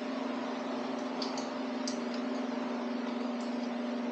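Steady electrical hum in a workshop, with a few faint light clicks about a second or two in, as small metal engine parts are handled.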